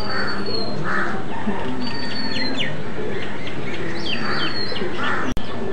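Birds calling: rough, noisy calls about once a second, mixed with high whistled notes that fall in pitch. The sound drops out abruptly for a moment near the end.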